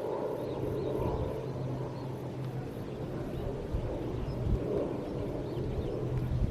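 A steady low motor hum with a constant low tone, with faint high chirps above it.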